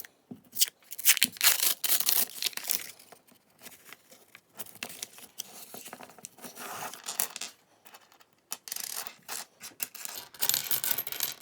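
Pennies clinking and scraping against each other as they are spread and sorted by hand, in runs of quick clicks and rustles that are busiest at the start and again near the end.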